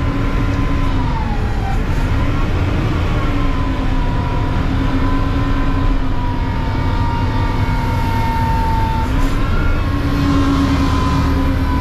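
Mack CNG garbage truck running with a low rumble and a steady mechanical whine. The whine drops in pitch twice, about a second and a half in and again near the end, and climbs back each time.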